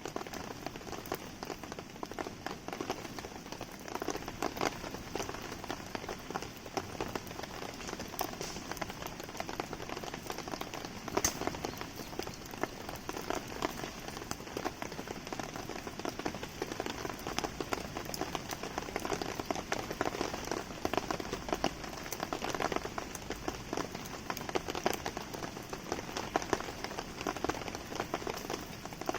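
Steady rain falling, a dense patter of drops, with a wood fire crackling beneath it; one sharper pop about eleven seconds in.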